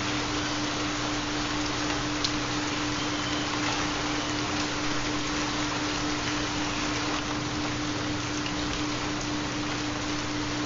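Steady rain falling, with a continuous low hum-like tone underneath from a theta (4 Hz) binaural-beat track.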